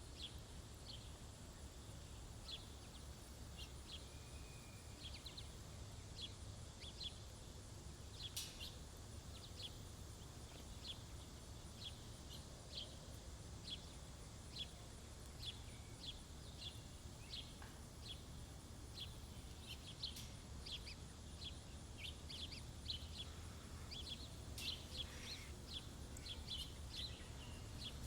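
Small birds chirping at a feeder: many short, high chirps, irregularly spaced and overlapping, over a faint steady low hum.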